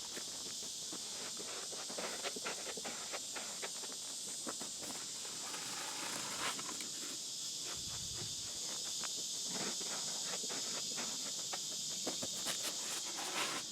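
A steady high-pitched chorus of insects, with scattered small irregular clicks and scrapes from hand work on concrete block cores as they are filled.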